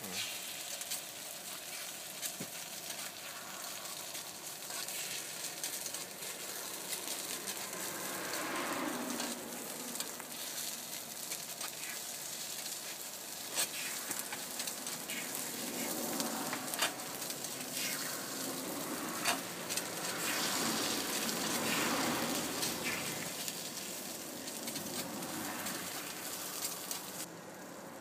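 Takoyaki batter sizzling and frying in a takoyaki pan over gas burners, a steady hiss, with a few sharp clicks of the picks against the pan as the balls are turned and lifted out.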